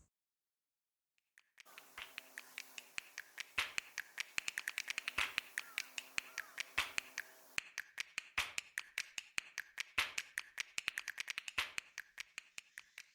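Rapid, irregular sharp clicks and snaps, several a second, starting about a second and a half in.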